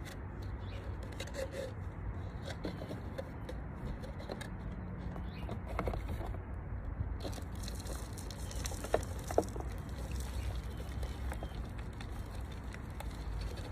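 Light handling noises, scattered small scrapes and taps, over a steady low rumble, with two sharper ticks about nine seconds in.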